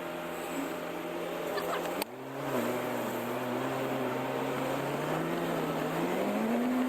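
Car driving, engine hum over a steady hiss of road and tyre noise. There is a sharp click about two seconds in, and the engine pitch rises near the end, then drops.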